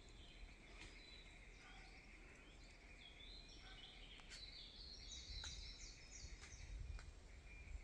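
Faint bird calling at dawn. A bird gives a quick run of high, stepped notes from about three to six and a half seconds in, over a steady high drone.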